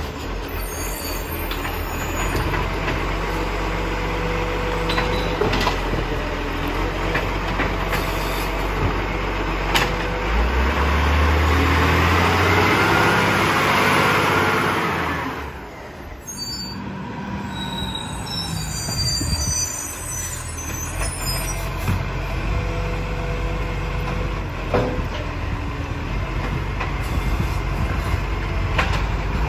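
Side-loader garbage truck running, its engine revving up hard for about five seconds partway through, typical of the hydraulics working the lift arm or compactor, then dropping back abruptly. A few short knocks come through at other times.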